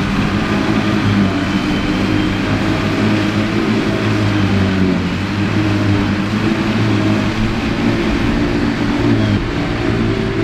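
Ford 8630's six-cylinder diesel engine working steadily under load, driving a Mengele SH40N forage harvester, with a slight rise and fall in engine speed.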